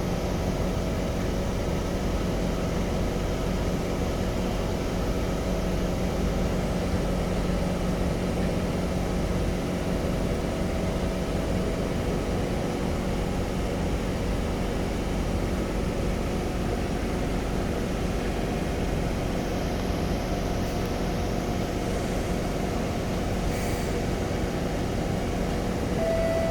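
C151 metro train standing at the platform with its doors open, its air-conditioning and on-board equipment giving a steady hum with fixed tones. A brighter chime tone starts right at the end as the doors are about to close.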